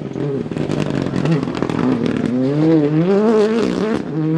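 Rally car engine at high revs, its pitch climbing, then dropping sharply at each gear change or lift of the throttle, several times over.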